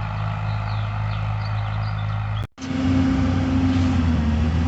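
Farm tractor engines running steadily on the road: one engine hum, then a brief break about two and a half seconds in, followed by a second tractor engine with a steady low drone.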